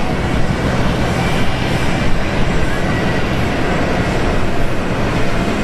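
Jet airliner engines running at the airport: a loud, steady, even noise with a faint low hum and a thin high whine in it.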